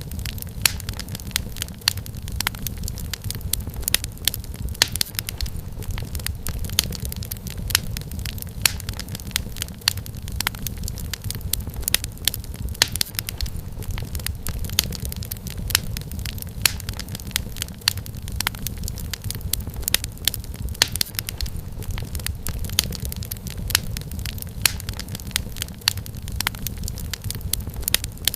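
Wood fire crackling in a fireplace: dense, irregular sharp pops and snaps of burning firewood over a steady low rumble of the flames.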